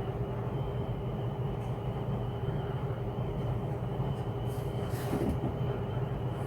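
Steady low mechanical hum, like a motor running, with a constant pitch throughout. A few brief rustling or handling noises come about four to five seconds in.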